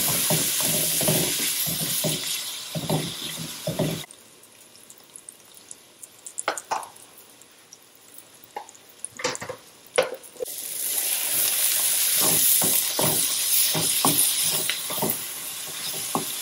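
Sliced onions and green chillies sizzling in ghee and oil in a pan, with a wooden spatula stirring and knocking against the pan. The sizzle cuts off suddenly about four seconds in, leaving only a few spatula clicks, and comes back loud about ten seconds in.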